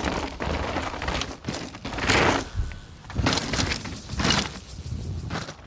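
Mountain bike ripping down a dirt trail: the tyres skid and crunch through loose dirt in a series of loud surges, with sharp knocks and rattles from the bike over the rough ground.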